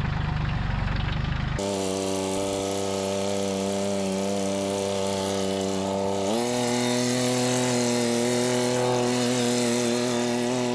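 A motor running steadily with a high hiss over it. Its pitch steps up to a higher, steady speed a little past halfway through.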